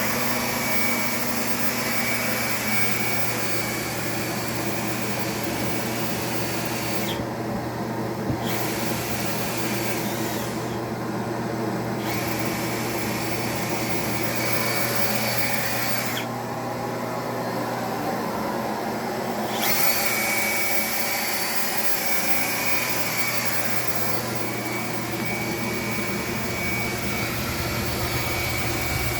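Duct-cleaning vacuum running steadily with a hum, its high hiss dropping away three times for a second or more each.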